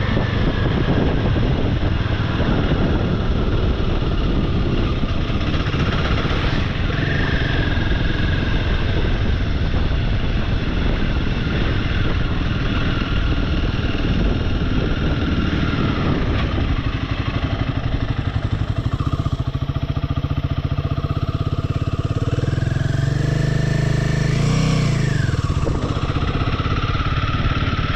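Royal Enfield motorcycle engine running while riding, its revs rising and falling a few times, with a climb and drop in pitch near the end.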